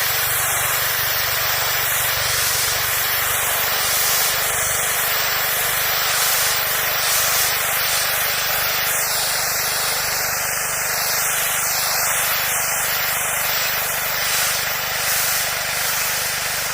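Gas-engine pressure washer running steadily with its high-pressure water jet hissing against concrete, as one continuous noise over a constant engine hum.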